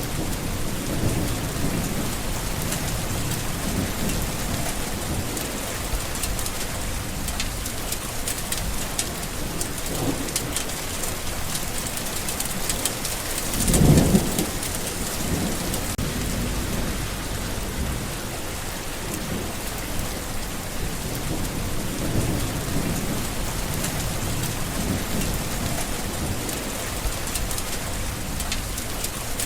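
Steady rain falling, with low rolls of thunder underneath; a louder clap of thunder comes about halfway through.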